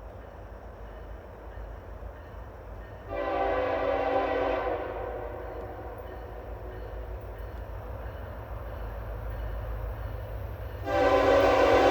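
Freight locomotive air horn sounding for a road crossing: one blast of about a second and a half, then after a pause a second, louder blast begins near the end. A steady low rumble runs underneath.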